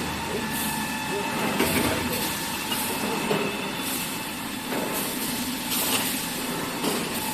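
Kitchen towel paper converting line running: steady machine noise with thin steady tones, broken by repeated short hissy surges.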